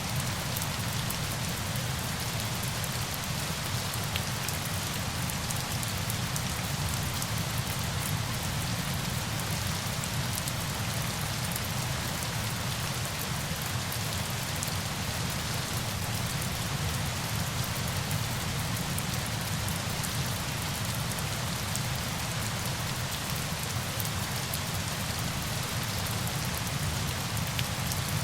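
Steady hiss of falling water, even throughout, with a low rumble beneath and faint scattered ticks of drops.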